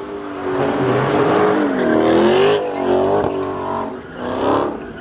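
Car engine revving hard, its pitch rising and falling repeatedly, at a street takeover, with short bursts of harsher noise.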